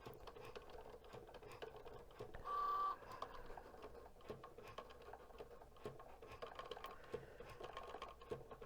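Cricut Joy cutting machine running a cut on an infusible ink sheet: a faint motor whir with rapid light ticking as the blade carriage moves. A brief louder tone sounds about two and a half seconds in.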